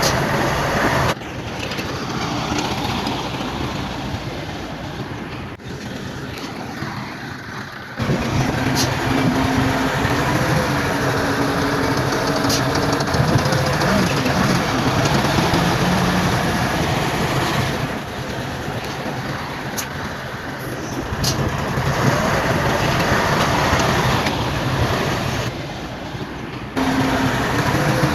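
Heavy bulldozer's diesel engine running under load with a steady low drone, and a few sharp metallic clicks over it. The sound cuts abruptly several times between louder and quieter stretches.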